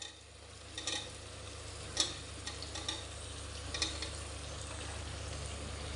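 Boiled potato and carrot pieces tipped into hot oil and masala in a pressure cooker, sizzling that grows steadily louder as they go in, with a few light knocks of the plate and pieces against the cooker.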